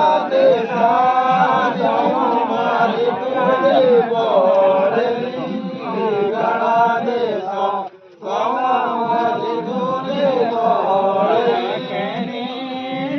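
Hindu devotional chant to the goddess, sung in long drawn-out notes by a voice, breaking off briefly about eight seconds in.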